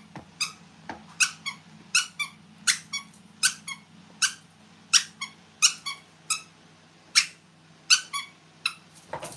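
Rubber squeaky dog toy squeaked over and over in quick, short, high squeaks, about two a second, with a faint steady low hum underneath.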